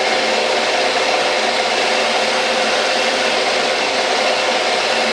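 Small metal lathe running steadily under power with a constant motor whine, taking the final cutting pass along a taper.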